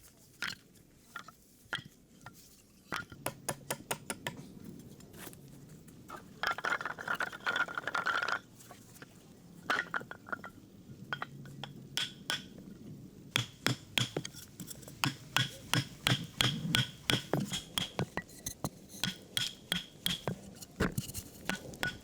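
Hands-on work sounds: a run of sharp clicks and knocks, with a stretch of scraping or rubbing about seven seconds in. The tapping grows denser and more regular over the second half.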